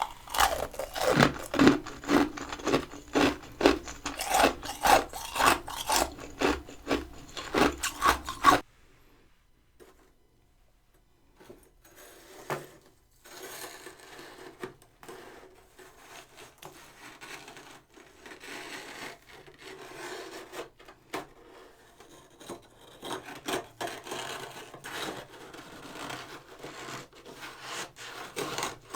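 Freezer frost being scraped in quick, rhythmic strokes for about eight and a half seconds. After a short pause, quieter, irregular scraping and crunching of the frost follows.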